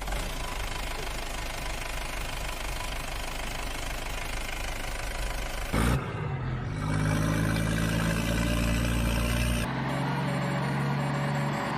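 Dubbed-in stock sound effects of a heavy diesel engine running. About six seconds in, after a short louder burst, it changes to a deeper, steady engine note, which shifts again near the end.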